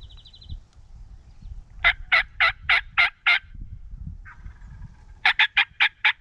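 Wild turkey calling: a series of six loud, evenly spaced notes about two seconds in, then a second, faster run of about seven notes near the end.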